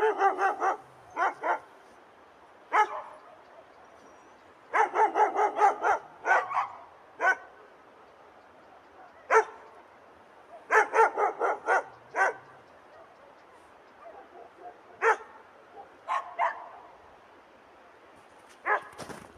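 A dog barking in short quick volleys, several barks in a row, repeated on and off with pauses of one to a few seconds, over a faint steady rushing background.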